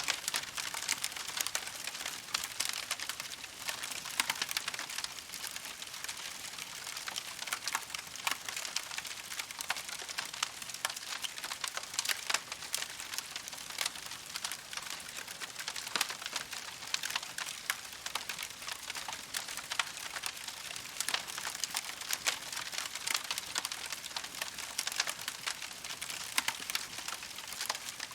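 Wood campfire crackling steadily: a dense, irregular run of small pops and snaps over a soft hiss.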